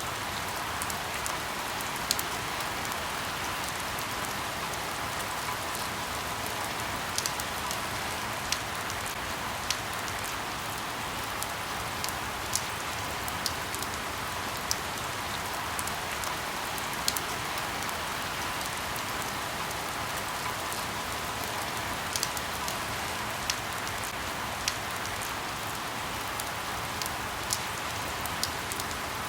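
Steady rain falling on leaves, an even hiss with individual drops ticking sharply every second or so.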